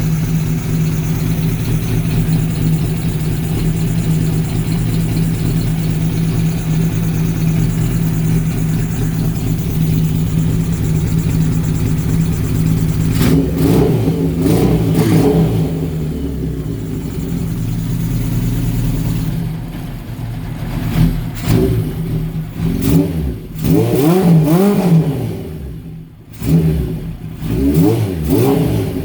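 1979 Suzuki GS1000's air-cooled inline-four engine running through a vintage Yoshimura exhaust. It idles steadily, is revved up and back down once around halfway, then is blipped sharply about half a dozen times in quick succession near the end.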